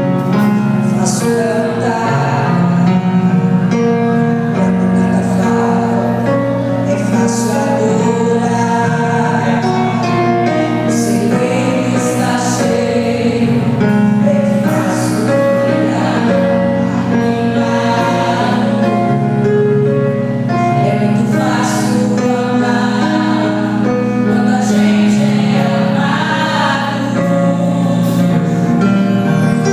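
Gospel music with voices singing together over a steady instrumental accompaniment.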